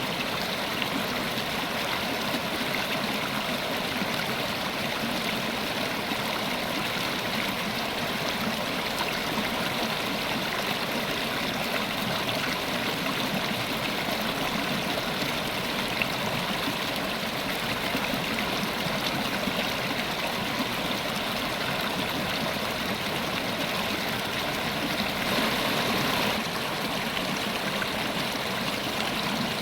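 River water running steadily, an even rushing sound that swells briefly about twenty-five seconds in.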